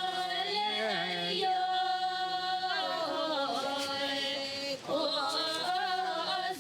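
Music with a chanting voice: long held sung notes that waver and bend in pitch, with a short break near the end before the chant resumes.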